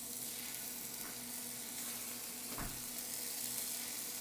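Chunks of mahi-mahi frying in oil on a hot Blackstone flat-top griddle, a steady sizzle. A single light tap comes about two and a half seconds in.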